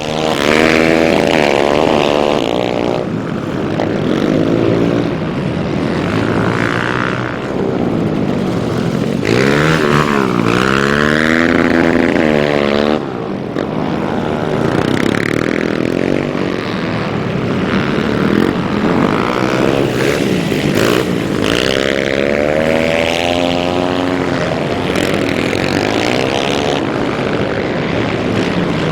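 Dirt bike engines revving hard, the pitch rising and falling again and again.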